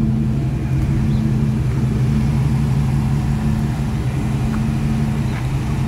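Motor vehicle engine running steadily, a low even drone with no change in pitch.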